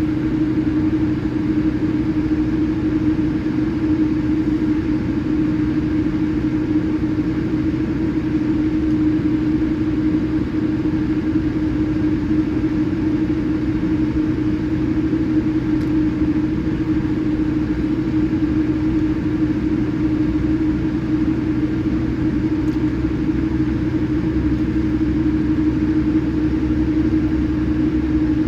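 Steady cabin drone inside a Boeing 787-8 airliner: engine and airflow noise with a constant low hum, unchanging throughout.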